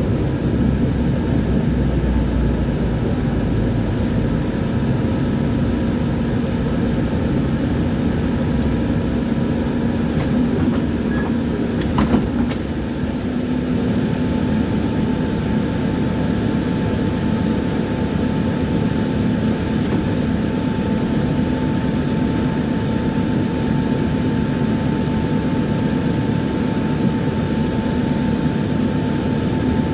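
Tram running along its rails: a steady rumble with a constant hum. A few sharp clicks come about ten to twelve seconds in.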